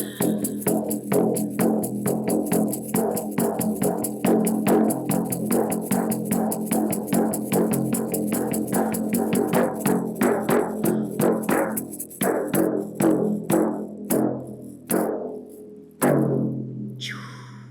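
A drum beaten fast and evenly, about five strikes a second, keeping time for a jumping and shaking exercise. The beat slows after about twelve seconds and ends with a last stroke that rings out and fades.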